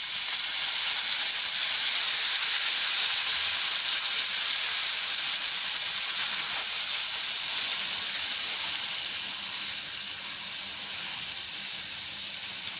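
Water poured into hot oil with fried ginger-garlic paste and chillies in a kadhai, hissing and sizzling loudly as steam bursts up, easing off slowly toward the end.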